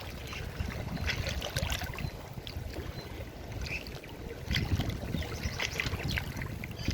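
Forest stream running over rocks: a steady rush of water with many small, quick splashes throughout.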